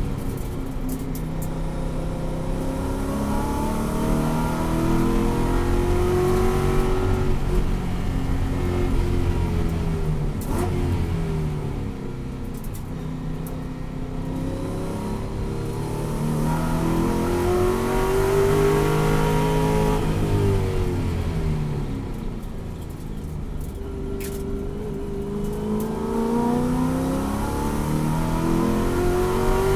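Ford Mustang Boss 302 race car's V8 engine at full racing pace, its revs climbing and dropping again and again as the car accelerates and lifts off around the track.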